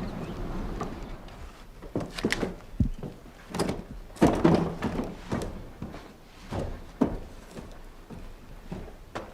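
A series of irregular knocks and thunks, one every second or so, the loudest about four seconds in.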